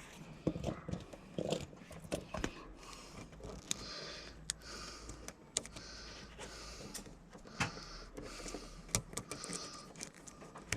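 Scattered light clicks, taps and rustling from a wiring harness and its plastic clips being handled and fitted.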